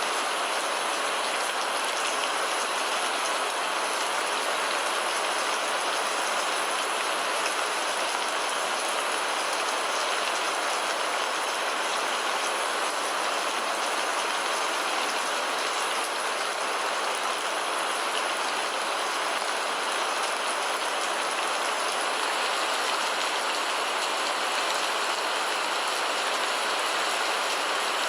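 Steady rain falling, a dense, even hiss of drops that does not let up.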